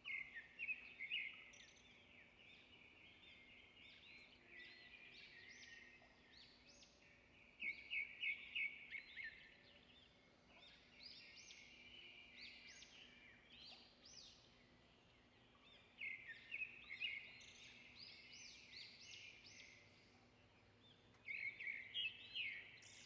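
Faint chirping of small birds, in bursts of quick upward chirps every few seconds.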